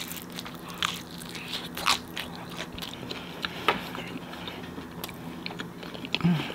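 Close-miked chewing of homemade pizza with a crispy crust: irregular sharp crunches and wet mouth clicks as it is bitten and chewed.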